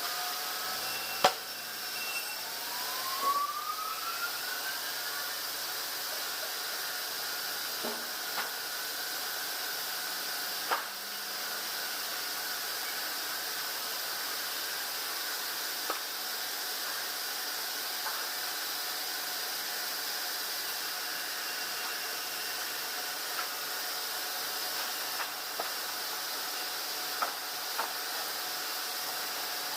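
Sawmill bandsaw machinery running with a steady hissing noise and faint steady whines, two rising whines in the first few seconds, and scattered sharp knocks of wood and metal, the loudest about a second in.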